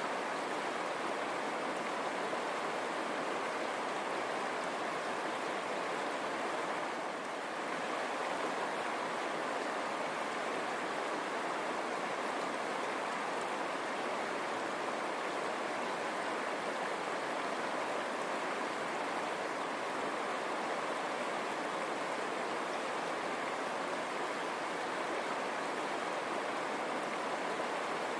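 River water running over stones: a steady, even rush.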